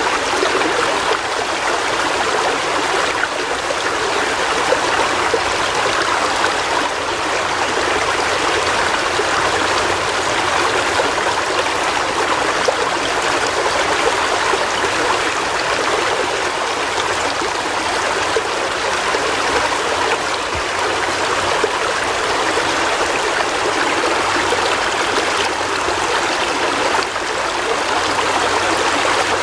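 River water flowing over rocks, a steady rushing and burbling with no pauses.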